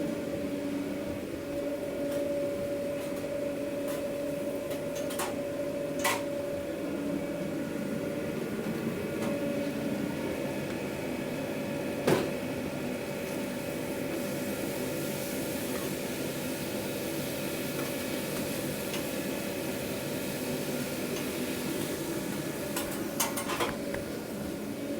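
Steady hum of running food-truck kitchen equipment, with a few sharp clacks of kitchenware, the loudest about halfway through.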